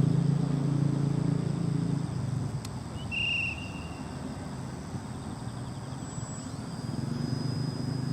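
Radio-controlled model airplane's engine running in flight, a steady drone that fades about two seconds in and grows louder again near the end as the plane passes. A brief high chirp just after three seconds.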